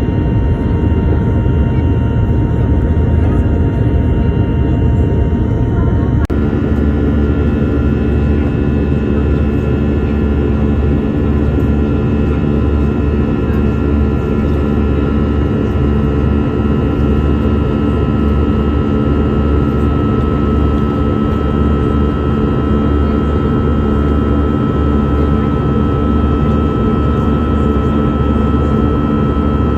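Airliner's engines running at high power during takeoff: a loud, steady rumble with steady whining tones. The sound changes abruptly about six seconds in.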